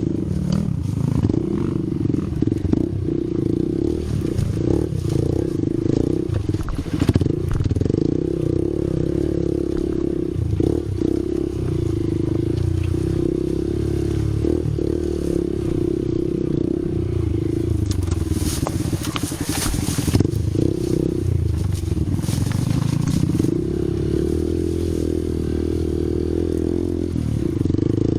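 A vehicle engine running steadily on an off-road ride, with clattering and knocks from the rough ground. A brief louder rushing noise comes about two-thirds of the way through.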